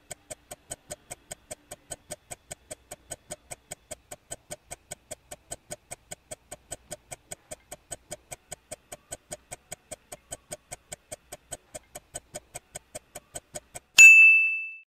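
Countdown timer sound effect: a steady clock-like ticking, about three and a half ticks a second, then a single bright ding about fourteen seconds in that rings briefly and fades, marking time up and the answer reveal.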